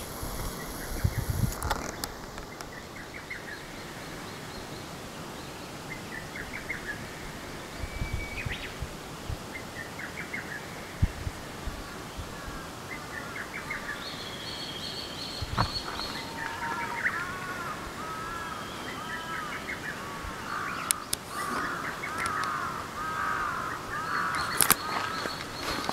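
Wild birds calling outdoors: scattered short chirps at first, then a busy run of quick repeated arched chirps through the second half, with a few soft knocks.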